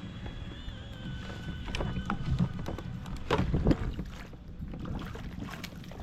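Wind and water noise around a small kayak, with a cluster of sharp knocks or splashes about two seconds in and a louder one a bit past three seconds in.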